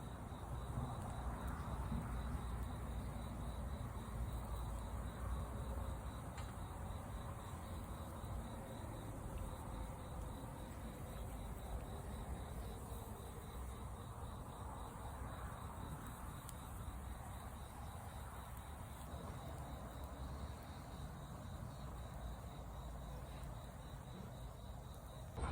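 Outdoor ambience with insects trilling: a faint, evenly pulsing high chirr over a low steady rumble.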